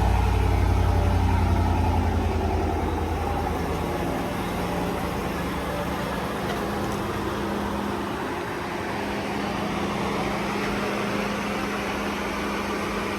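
Chevrolet Silverado Z71 pickup engine running through its stock exhaust. It grows quieter over the first four seconds and then idles steadily.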